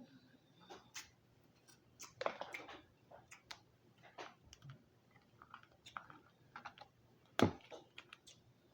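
Eating lobster legs close to the microphone: irregular chewing and small clicks and crunches of the shell. There is a denser run of crunching a little after two seconds, and the loudest crack comes about seven and a half seconds in.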